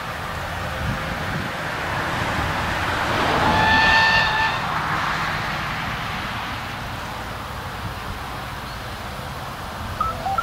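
Narrow-gauge diesel train running along the track, its engine rumble and rail noise swelling to a peak and then fading as it moves away, with one horn blast of about a second near the middle. A few short chirps near the end.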